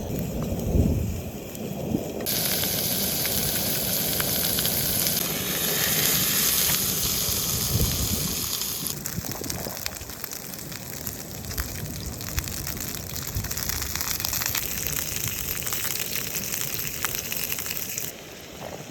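Pork jowl sizzling in a hot pan, a dense frying hiss with small spattering pops. The hiss comes in sharply about two seconds in and eases off around nine seconds, after a single thump near the start.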